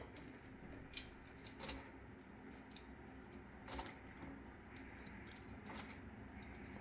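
A few faint, scattered clicks and taps, four or five spread over several seconds, over a low steady hum.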